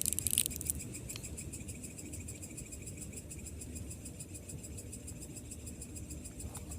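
Crickets chirping steadily in a high, rapidly pulsing chorus, over a low rumble of background noise. There is a brief rustle in the first half-second.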